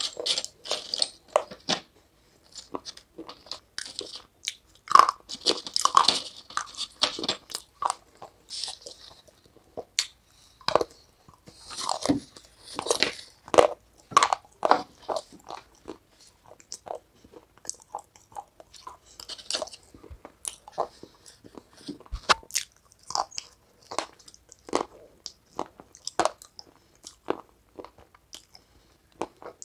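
Close-miked eating: a person biting and chewing hard, crunchy food, with a steady run of sharp, irregular crunches.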